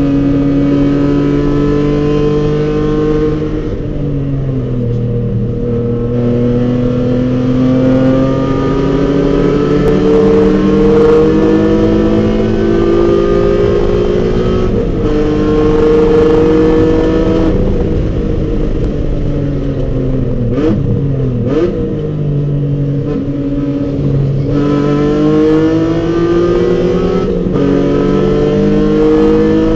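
BMW E46 M3's straight-six engine under hard acceleration on a race track. Its pitch climbs for several seconds at a time and drops sharply at each gear change, with quick rev blips about two-thirds of the way through as it downshifts.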